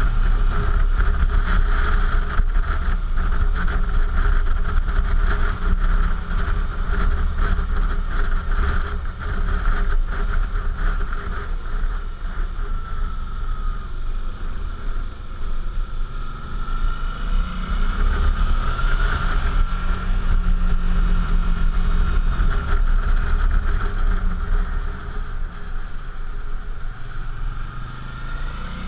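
Suzuki V-Strom motorcycle's V-twin engine running under way, heard through heavy wind rush on a helmet-mounted action camera's microphone. The engine note rises and falls with changes of speed in the second half.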